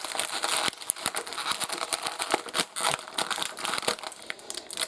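Toy packaging crinkling and rustling as it is handled, a dense, irregular run of crackles.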